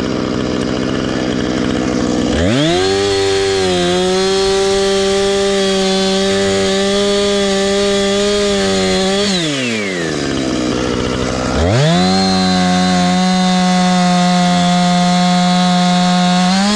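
Husqvarna two-stroke chainsaw revved to full throttle twice, held high and steady for about seven seconds and then about five, falling back to idle in between and dropping off at the end.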